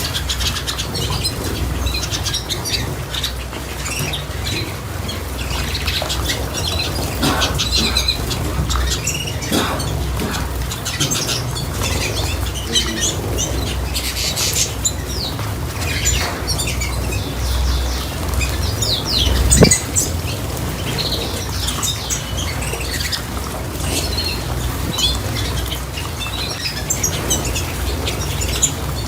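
Small cage birds chirping and giving short squawks, with bursts of wing fluttering. A steady low rumble runs underneath.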